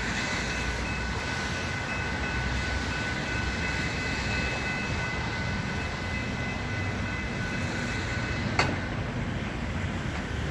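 Metra commuter train running through the station, with a steady rumble and a high, steady whine that stops about eight and a half seconds in with a short click.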